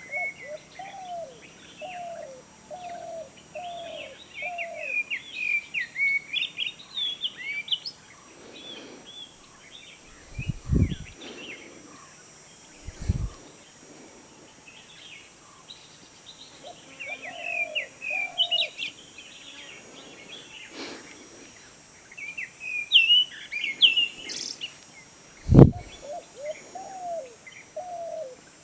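Several wild birds calling in forest: quick chirps and whistled phrases throughout, and runs of lower, falling notes repeated about one and a half times a second. Three dull thumps break in, at about 11, 13 and 25 seconds, the last the loudest.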